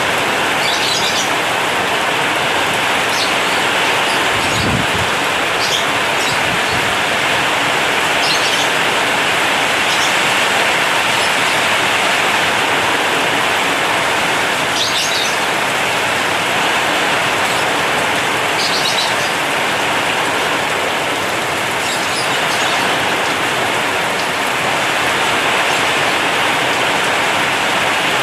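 Heavy rain falling on a zinc sheet roof, a dense steady hiss. Short, high bird chirps come every few seconds, and there is a low thud about five seconds in.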